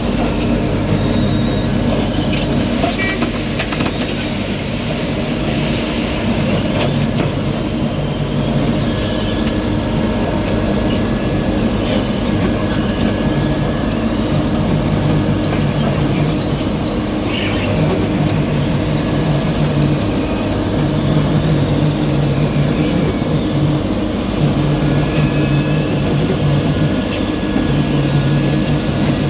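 Heavy road-construction machinery running steadily under load, with a low tone that cuts in and out every second or two.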